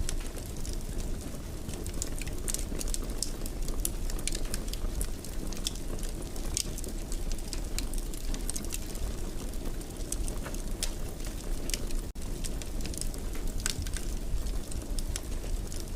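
Wood fire burning in a fireplace: a steady low rumble with irregular sharp crackles and pops. The sound cuts out for an instant about twelve seconds in.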